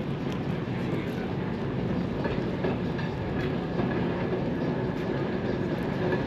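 A rail vehicle rolling along the track: a steady rumble with light, irregular clicking from the wheels on the rails.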